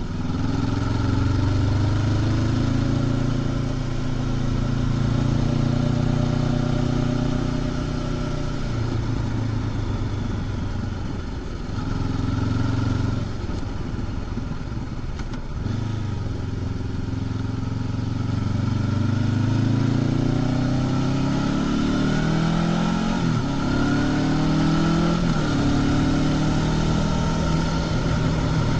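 Honda CB500X parallel-twin engine with its stock exhaust, heard from the rider's seat on the move. The engine note holds steady for the first part, eases off and comes back in the middle, then rises and falls in pitch several times as the throttle opens and closes.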